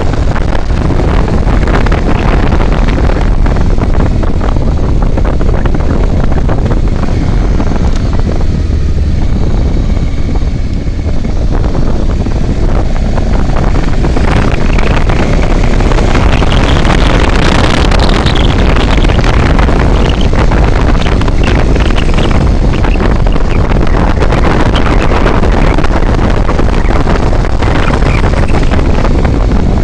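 Vehicle travelling on a highway, its road and engine noise buried under heavy wind buffeting on the microphone; it eases briefly about ten seconds in, then returns.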